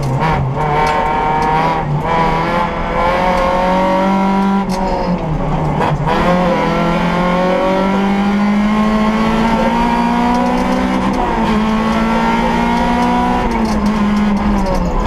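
Peugeot 106 S16's sixteen-valve four-cylinder engine heard from inside the cabin at full rally pace. It revs up and drops back as the driver lifts and changes gear, with long rising pulls through the middle and upshifts about eleven and fourteen seconds in. A few sharp clicks come at the lifts in the first six seconds.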